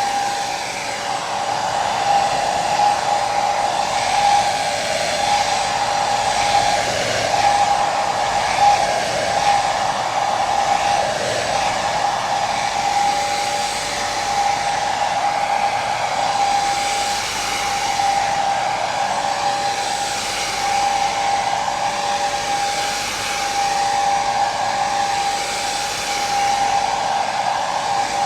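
Hair dryer running steadily: a constant rushing of air with a steady whine from the motor and fan.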